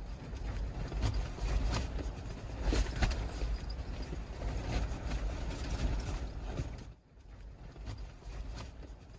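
Scattered knocks and rustling over a low rumble, which drop away briefly about seven seconds in.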